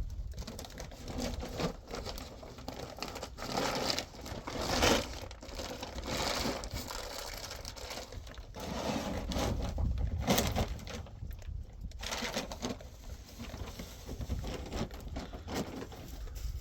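Crinkling and rustling of something being handled, coming in irregular bursts over a low steady rumble.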